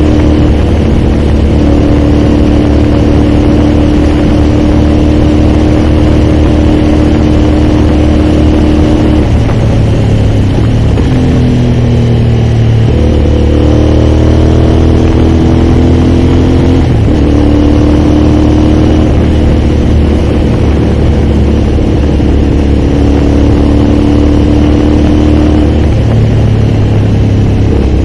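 Aprilia Shiver's V-twin engine running under way at a steady pitch, dipping about nine seconds in, climbing for a few seconds, then dropping suddenly about seventeen seconds in as it shifts up, and settling to a steady note again.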